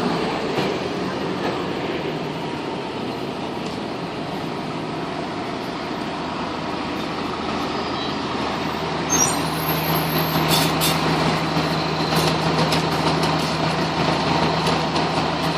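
Fire engine's diesel running at low speed, growing louder a little past halfway, with a few short sharp hisses from its air brakes.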